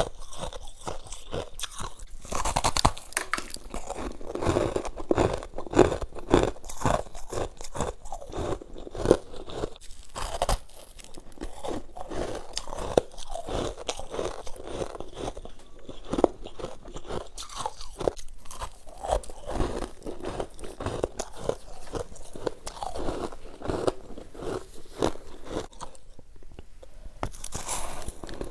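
Close-up crunching and chewing of freezer frost, many irregular crisp bites running on steadily.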